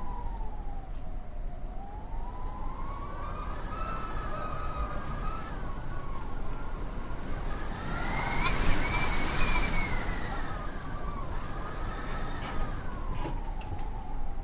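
Winter wind howling in a wavering whistle that sinks and rises slowly. It swells to its highest and loudest with a gust about nine seconds in, then falls away.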